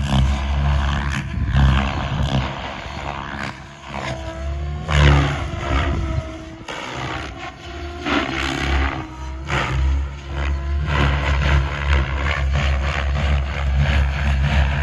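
PSG-Dynamics Seven electric RC helicopter in flight: the 685 mm main rotor blades whooshing over the Xnova motor's whine. Around the middle, the whine glides down and back up several times as the helicopter manoeuvres.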